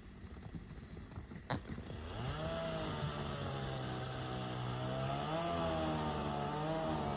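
A few hoof-like clicks, then a small engine comes in about two seconds in and runs steadily, its pitch wavering slightly.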